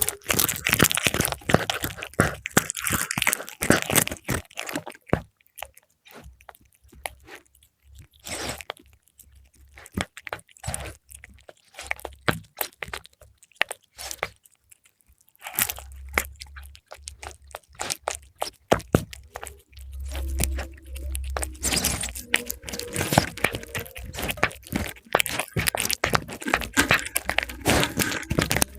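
A cat chewing and crunching fried milkfish, with wet, crisp bites close to the microphone. The crunching comes thick at first, thins to scattered clicks for about ten seconds, then picks up again.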